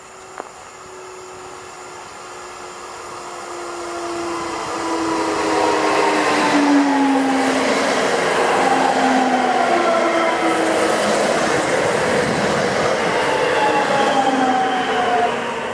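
Electric multiple unit passenger train approaching and passing close by on the rails, growing louder over the first six seconds and staying loud as the cars go past. Several whining tones slide down in pitch throughout the pass.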